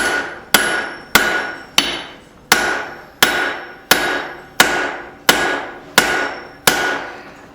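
Blacksmith's hand hammer striking hot steel on an anvil: a steady run of about eleven blows, roughly three every two seconds, each ringing briefly. The steel is being worked on the last of a fading heat.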